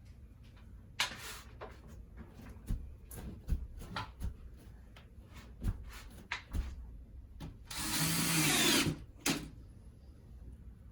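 Scattered knocks and clicks of tools being handled, then a power tool runs in one short burst of about a second, about eight seconds in.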